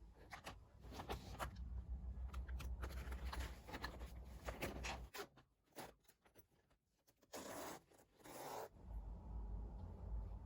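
Short scraping and rasping handling noises with small clicks. A quick run of strokes comes first, then after a pause two longer zip-like rasps.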